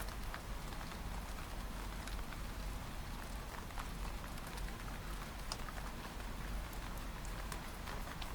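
Steady rain with scattered raindrops tapping on window glass, over a low rumble.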